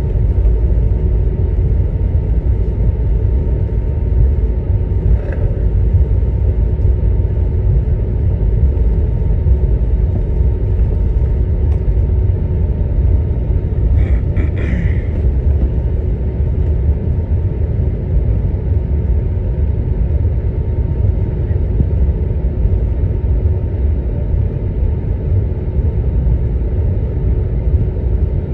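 Steady low rumble of an Airbus A321's engines and airframe heard from inside the passenger cabin, with a faint steady hum over it.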